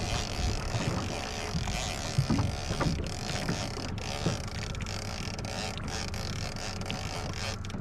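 Small boat's outboard motor running steadily, with wind buffeting the microphone.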